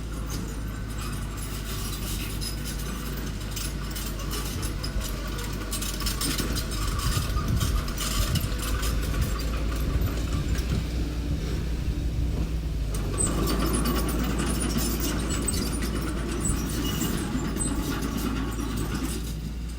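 Construction machinery engine running steadily, with repeated metallic clanks and rattles. A coarser, louder rumble comes in about two-thirds of the way through.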